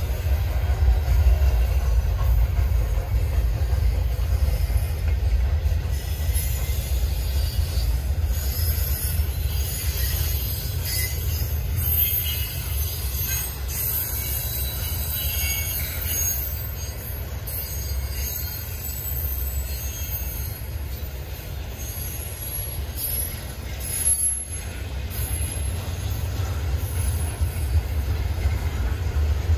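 Freight cars rolling past with a steady low rumble, and a thin high-pitched wheel squeal that comes and goes through the middle of the stretch.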